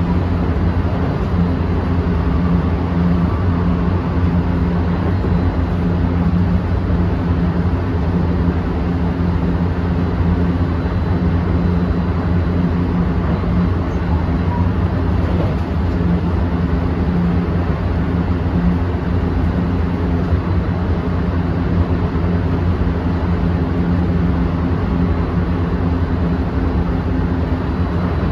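Running sound inside the motor car of a JR West 223 series 2000-subseries electric train with a Toshiba IGBT inverter, heard from by the door: a steady rumble of wheels on rail with a steady low hum, the train holding an even speed.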